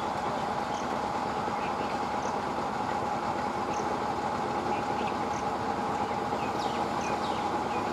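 Eastern Railway EMU local train approaching on the track: a steady running noise with a constant hum that holds even throughout.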